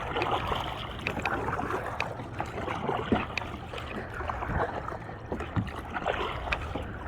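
Kayak paddle strokes: the blades dipping and splashing in choppy seawater, with the hull rocking on the waves.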